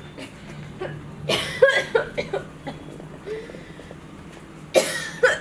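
A person coughing in two bouts, one about a second in and a shorter one near the end.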